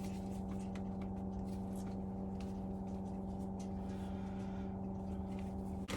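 Vacuum cleaner (Hoover) motor running with a steady hum, dipping briefly just before the end; the user says it is playing up.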